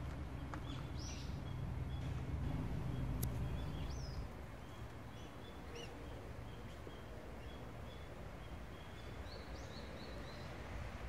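Park ambience: a steady low rumble with a few short bird chirps scattered through it. The rumble drops a little about four seconds in.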